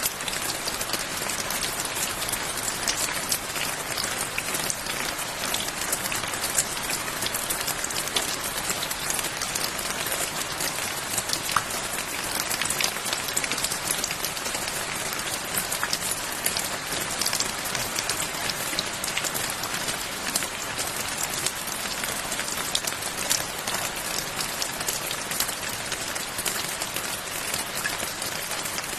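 Steady rain falling, an even hiss with many fine drop ticks spattering on a surface.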